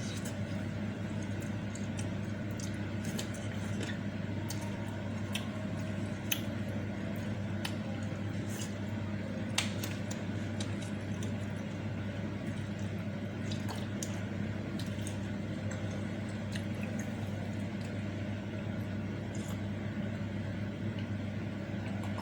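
Close-up mukbang eating of meatball soup with noodles: wet chewing and slurping with scattered sharp clicks, over a steady low hum.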